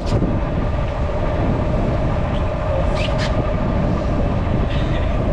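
A sailboat's engine running steadily under way: a constant hum over a low rumble that holds even throughout.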